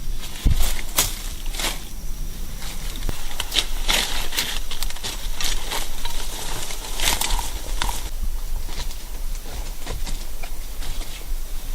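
Irregular rustling and crackling, a string of sharp snaps and crunches at uneven intervals, thickest in the middle.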